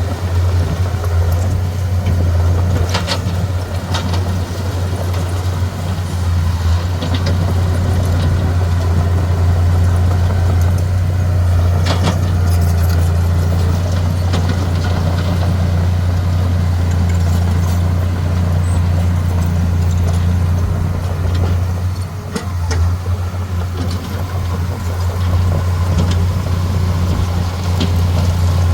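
Heavy diesel engine of earthmoving machinery running steadily with a deep, even drone, with a few sharp knocks and clanks scattered through it.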